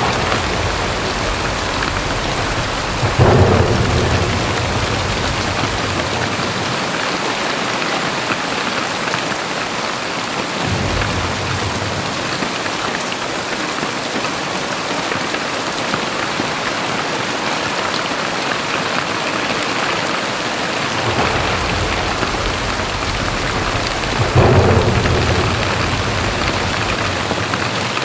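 Heavy rain pouring steadily, with thunder: two loud claps, about three seconds in and near the end, each trailing off into low rumbling.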